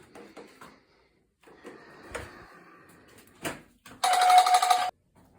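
An electric bell or buzzer rings loudly for just under a second near the end, one steady pitch with a fast rattling pulse. It follows some faint handling scuffs and a single knock.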